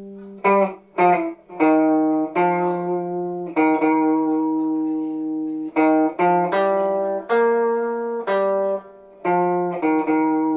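A plucked string instrument playing a slow melody in the C pentatonic scale: about a dozen single notes, each struck and left to ring and fade, with lower notes sounding under some of them.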